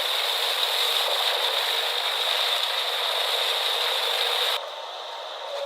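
Machinery running: a steady rattling mechanical noise with a high whine. It drops abruptly to a quieter level about four and a half seconds in.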